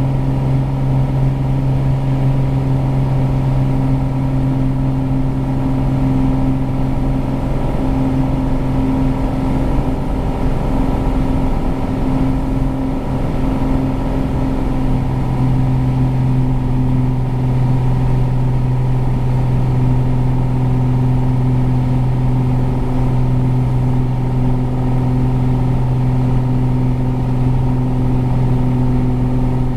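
Piper Cherokee Six 300's six-cylinder Lycoming engine and propeller running steadily at climb power.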